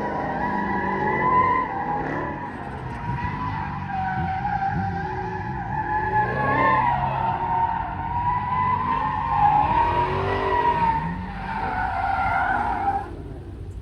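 A car spinning its tires on pavement, the tires squealing long and wavering over the engine running underneath. The squeal cuts off near the end.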